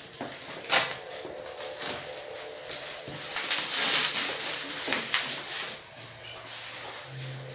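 Crinkling and tearing of bubble-wrap packaging being pulled open by hand, with a couple of sharp snaps and a longer stretch of rustling about halfway through.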